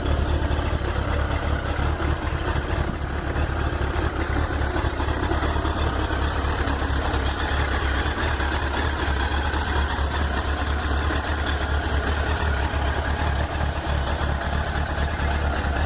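1996 Suzuki GSX-R1100W's inline-four engine idling steadily after a cold start.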